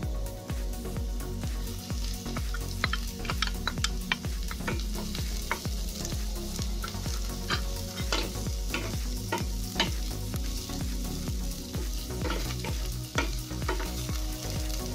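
Julienned carrots, onion, ginger and garlic sizzling in hot oil in a nonstick pan while a spatula stirs them, with irregular sharp clicks and scrapes of the spatula against the pan from a couple of seconds in.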